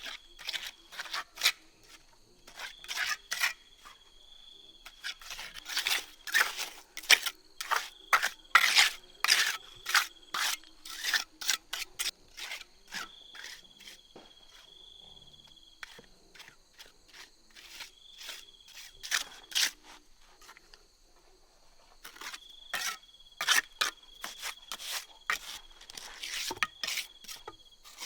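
Quick, irregular runs of sharp clicks and scrapes coming in loud clusters with short pauses, over a steady high-pitched insect drone.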